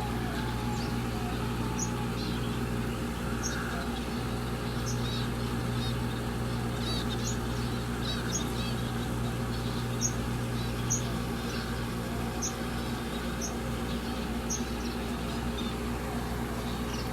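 Small birds chirping: short high chirps repeating about once a second, with other twittering between them, over a steady low hum.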